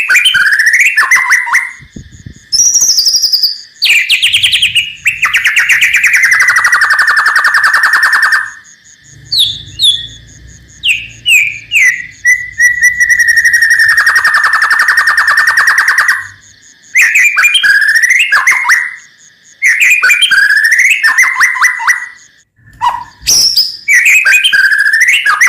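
White-rumped shama (murai batu) singing loudly: short whistled and chattering phrases broken by two long, rapid rattling trills ('kretekan') of about four seconds each.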